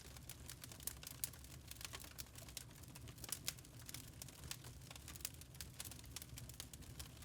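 Wood fire crackling in a fireplace: many irregular small pops and snaps over a low, steady rumble of the burning fire.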